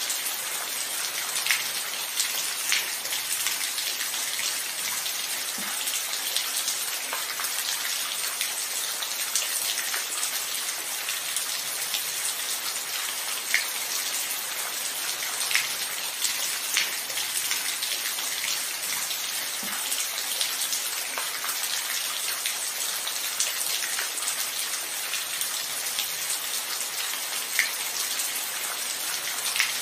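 Steady rainfall: an even hiss of rain with individual drops ticking sharply now and then on a nearby surface.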